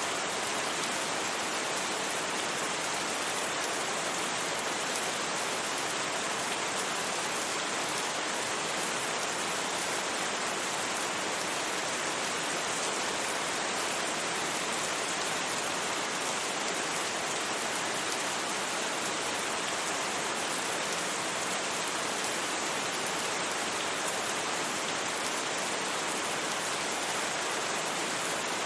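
Steady rain, an even hiss with no single drops, knocks or changes standing out.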